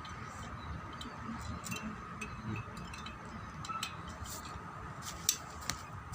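Scattered light metallic clinks and taps of hand tools and small parts being handled during the strip-down of a brush cutter engine, with one sharper click about five seconds in. A faint steady hum runs underneath.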